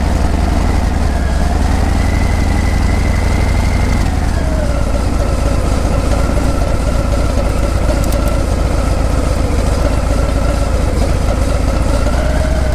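Harley-Davidson Breakout's V-twin exhaust running steadily under way, its pitch rising a little about two seconds in and easing back down after about four seconds.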